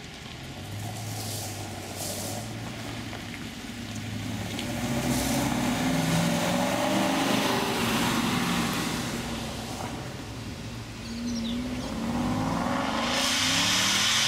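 Aston Martin Vantage's engine as the car pulls away and drives past, its exhaust note swelling and then fading. Near the end another car's engine revs up, rising in pitch, and gets louder as it pulls out.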